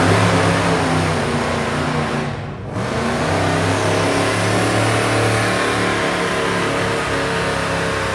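Street-stock gasoline pickup truck engine running at a truck pull. It drops off briefly about two and a half seconds in, then picks up again and runs steady.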